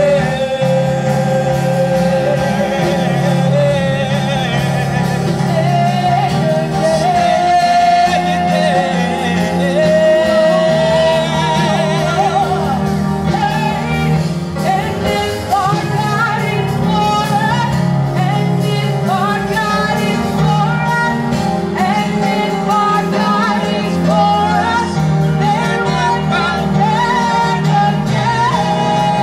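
Gospel worship music: a singer's voice carries a melody of held, sliding notes over steady instrumental backing.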